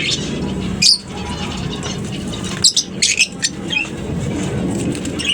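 Lovebirds in a colony giving short, shrill chirps: one call about a second in, then a quick cluster of calls in the middle, over a steady low background hum.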